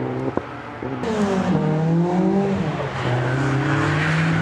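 Ford Escort Mk1 rally car engine running as the car is driven on a snowy track. About a second in, the engine note swings up and down through revs, then settles into a steady drone.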